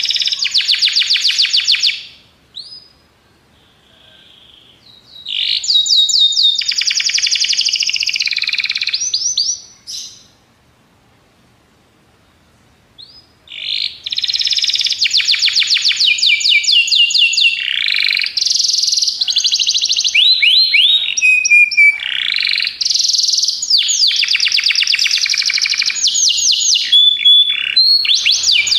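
Domestic canary singing: rapid trills and rolls mixed with sweeping whistled notes. The song comes in three phrases with pauses between them: a short one, then one of about five seconds, then a long one of about fifteen seconds.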